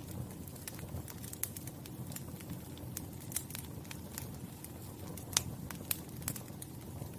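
Wood fire crackling: irregular sharp pops and snaps over a low, steady rumble of the burning, with the loudest pop about five seconds in.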